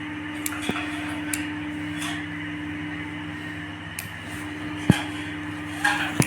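A steady mechanical hum holding one even pitch, with a few light clicks and a sharper knock about five seconds in.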